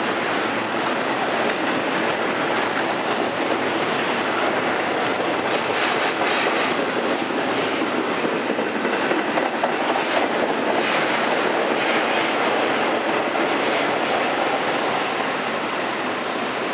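Double-stack intermodal container train rolling past: a steady rumble of steel wheels on rail, with clacking over rail joints around the middle and faint high wheel squeals now and then.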